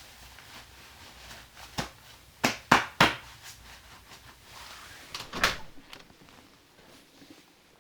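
A series of sharp wooden-sounding knocks and clatters in a small room: a single one near two seconds in, three loud ones close together about two and a half to three seconds in, then another cluster about five and a half seconds in.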